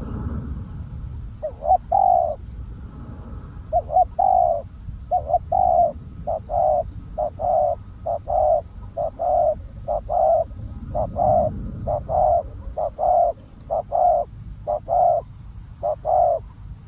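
Spotted dove cooing: a long run of short, mellow coo notes, some in quick pairs, repeated steadily for most of the stretch.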